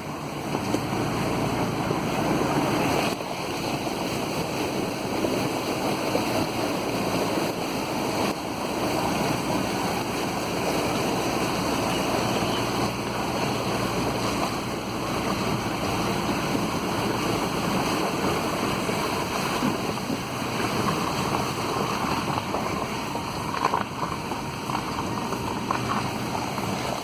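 A vehicle driving through floodwater: a steady rush and splash of water around the tyres and body.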